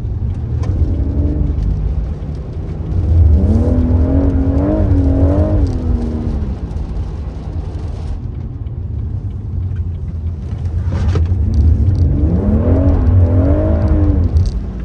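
BMW M140i's 3.0-litre turbocharged straight-six engine revving up twice over a steady low rumble. Each time the pitch climbs, wavers for a couple of seconds, then falls away.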